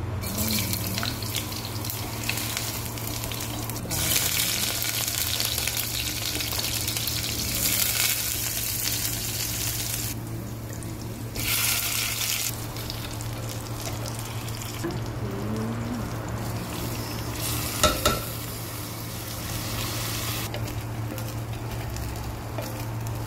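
Ginger, chicken and rice frying in hot oil in a glass pot, sizzling and stirred with a wooden spoon; the sizzle swells and dies back several times as ingredients go in and are turned. A steady low hum runs underneath, and two sharp knocks come about 18 seconds in.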